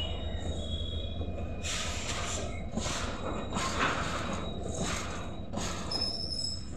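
Empty container flat wagons of a freight train rolling past, their wheels clattering in bursts about once a second over a steady low rumble.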